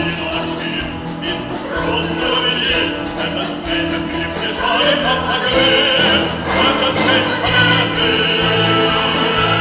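Pop-symphonic orchestra playing live: sustained orchestral music at a steady, full level.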